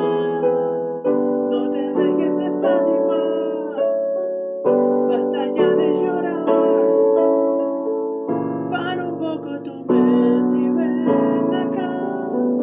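Piano and electric keyboard music, a run of sustained chords changing about once a second.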